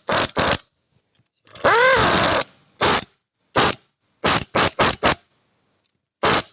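Power drill-driver running in short trigger bursts as it tightens the nuts on a starter motor with an 8 mm socket. One longer run about a second and a half in has its motor whine rising and then falling.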